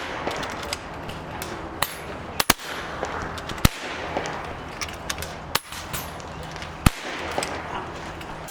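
PCP air rifles firing at irregular intervals along a benchrest shooting line: several sharp cracks, a pair close together about two and a half seconds in, over a steady background hiss.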